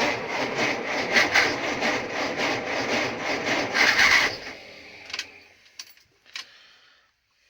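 Żuk's S-21 petrol engine being cranked by the starter in hard frost without catching, a rhythmic labouring that stops about four seconds in, followed by a few faint clicks. The uploader blames a too-weak spark, with the spark plugs and HT leads due for replacement.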